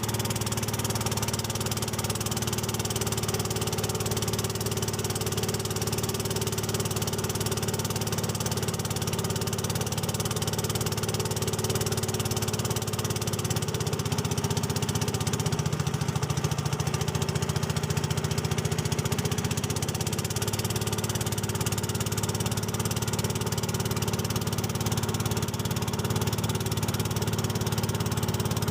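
Small boat engine running steadily. Its note shifts slightly for several seconds midway, then settles back.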